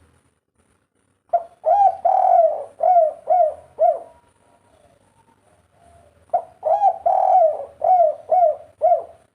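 Spotted dove cooing in two phrases about five seconds apart. Each phrase is a quick opening note, a coo, a long drawn-out coo, then three short coos, the rhythmic 'kuk 3' song.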